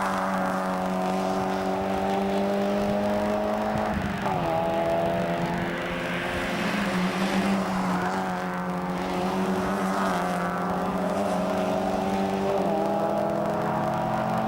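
Mazda MX-5 racing car's engine running hard, its pitch climbing under acceleration and dropping sharply at a gear change about four seconds in, with further shifts near the end.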